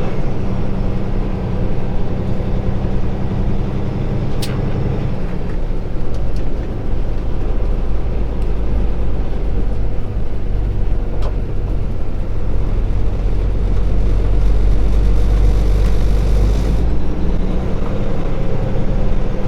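Kenworth T680 semi tractor's diesel engine running on the road, heard from inside the cab along with road noise. The steady engine note gives way about five seconds in to a heavier low rumble, with a couple of sharp clicks.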